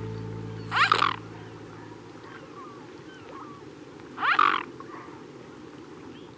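An animal calls twice, about three and a half seconds apart, each call short and harsh, over a low steady hiss.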